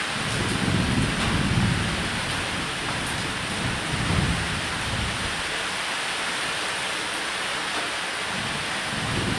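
Steady rain falling on a roof, with low rolling thunder that rumbles through the first two seconds and again about four seconds in.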